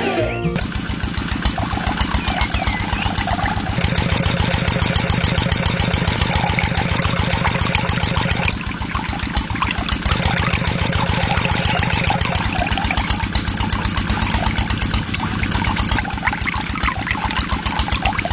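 Small motor of a DIY model engine water pump running with a fast, even rattle, dipping slightly in level about eight and a half seconds in.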